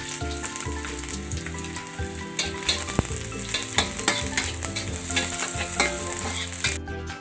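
Sliced garlic sizzling in hot oil in a wok, with a metal spatula scraping and clicking against the pan as it is stirred. The sizzle cuts off suddenly near the end.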